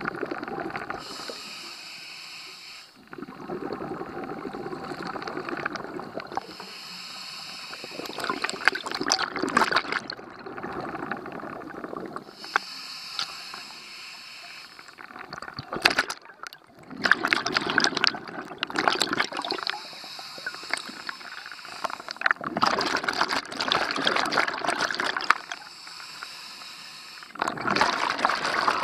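Scuba diver breathing through a regulator underwater, in a slow regular cycle: a hissing inhale through the demand valve, then a burbling rush of exhaled bubbles, repeated about five times.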